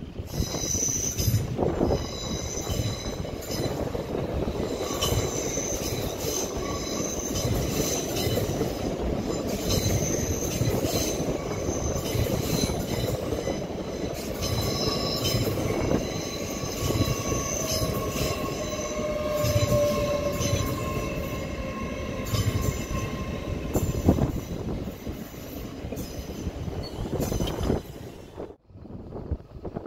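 LNER Azuma (Hitachi) passenger train passing on the rails, a steady rumble of wheels with repeated high-pitched squealing tones from the wheels. The sound fades out sharply near the end.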